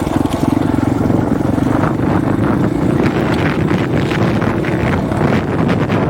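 Husqvarna 501 four-stroke single-cylinder dirt bike engine running at a steady pull while riding, with heavy wind buffeting on the bare microphone, gustier in the second half.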